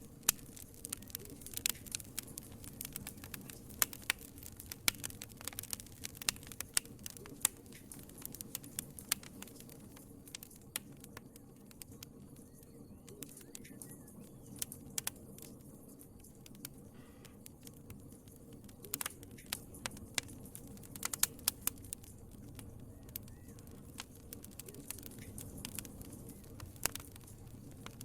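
Wood fire in a fireplace crackling, with frequent irregular sharp pops and snaps over a low steady rush of the flames.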